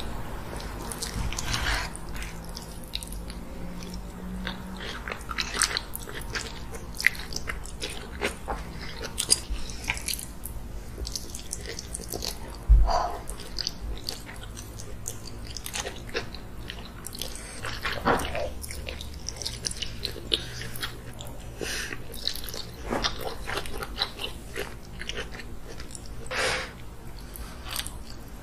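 Close-up eating of cheesy corn: wet chewing and smacking, with the slurp of melted cheese strands and scattered clicks of wooden spoons. There is one low thump about halfway through.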